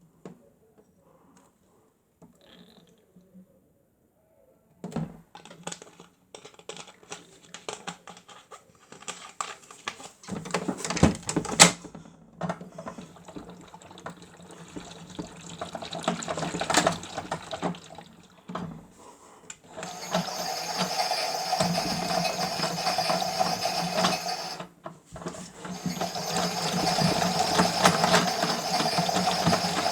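Toy Miele W1 washing machine in its final rinse: after a few quiet seconds, water splashes and sloshes with scattered clicks over a low steady hum. About two-thirds of the way through, a small motor starts running steadily with the water noise, stops briefly and starts again.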